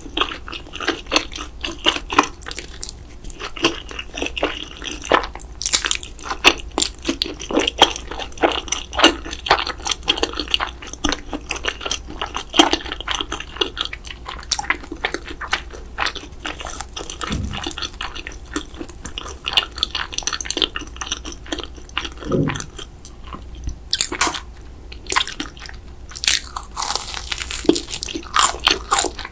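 Close-miked eating sounds: a person biting and chewing crunchy food, with many irregular crunches and crackles.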